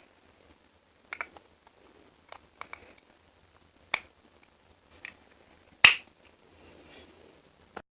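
Sharp plastic clicks and taps from handling a derma roller's case and packaging, about seven irregular ones, the loudest near six seconds in, with a faint rustle shortly after.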